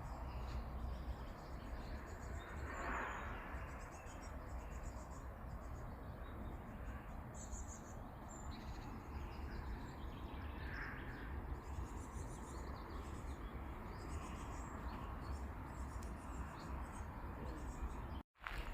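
Forest ambience: small birds giving short, high chirps every second or two over a steady low rumble and hiss. The sound drops out for a moment near the end.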